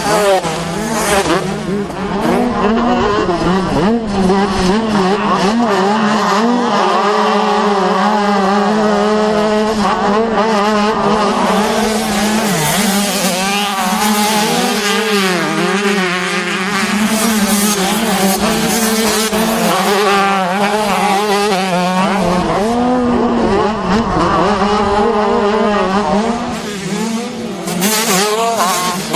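Several motocross bikes racing together, their engines revving high, the overlapping pitches rising and falling as riders shift and throttle. The sound eases briefly near the end.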